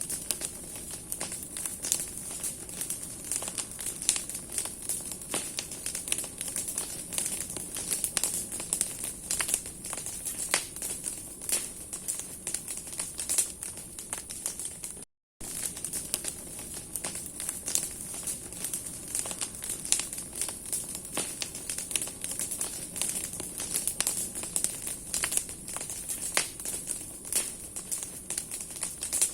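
Large bonfire of burning branches crackling: dense, irregular pops and snaps of the wood over a steady hiss of flame. The sound cuts out for a moment about halfway through.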